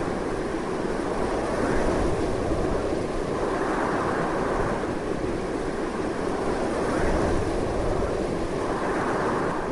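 Strong, continuous wind blowing in a steady roar of noise that swells and eases slightly.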